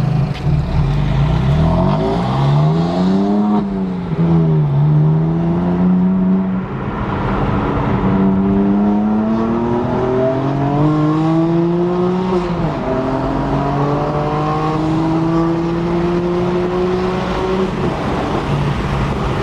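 BMW M4's twin-turbo straight-six with downpipes and a JB4 tune, accelerating through the gears, heard from inside the cabin. The engine note climbs and drops back at gear changes, about four, seven and twelve seconds in, then climbs steadily again.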